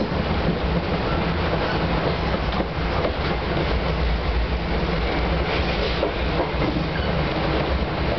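Iyo Railway 800 series (former Keio 2010 series) electric train heard from inside the passenger cabin while running: a steady rumble with wheels clicking over the rail joints, and the cabin air conditioning adding a constant hum.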